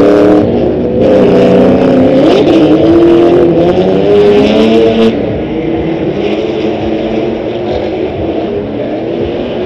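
Drift cars' engines revving hard out of sight, their pitch rising and falling as the throttle is worked. Loud for about five seconds, then suddenly quieter and duller as the cars move away.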